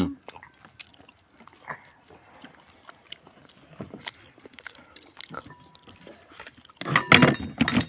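A person biting and chewing food: faint scattered mouth clicks and smacks, then a louder burst of sound near the end.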